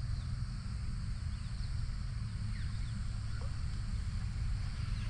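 Wild birds giving scattered short, falling whistled calls over a steady high insect hiss and a steady low rumble.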